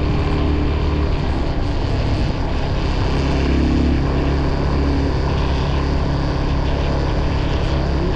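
Motorcycle engine running at a steady cruising speed while riding, a constant low drone under rushing noise.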